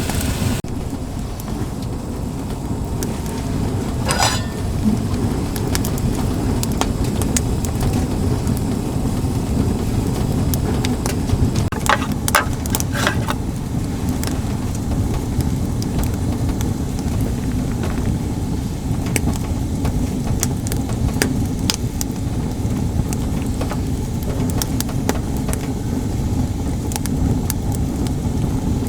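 Motorcycle on the move: a steady low engine rumble mixed with wind rush on the camera, with a few brief clicks about twelve seconds in.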